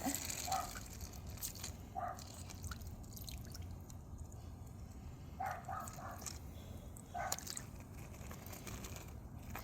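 Toy truck being pushed through wet mud: faint wet squelches and drips with scattered small clicks and crunches.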